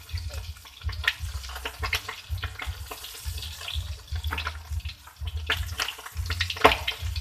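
Water running from a tap into a sink, with frequent knocks and clatter of things being handled in it.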